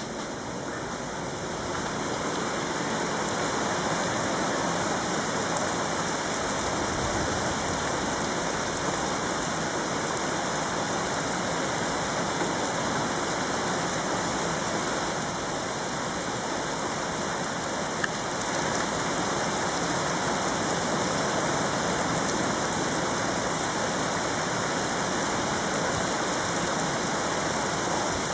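Heavy rain pouring down steadily, a dense hiss that swells over the first couple of seconds and then holds even.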